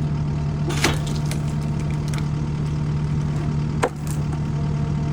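An engine idling steadily, with two short sharp knocks about one second and four seconds in.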